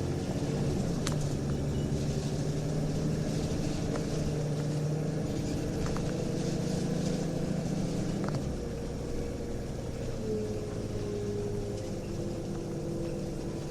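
Interior running sound of a Nissan Diesel UA (KL-UA272KAM) city bus with a ZF Ecomat 4-speed automatic, its diesel engine pulling steadily under load. A little past eight seconds the engine note changes and quietens. This bus has an off-normal sound and revs high before upshifts, which the recordist puts down to a power-mode setting or to torque-converter slip, common in such buses.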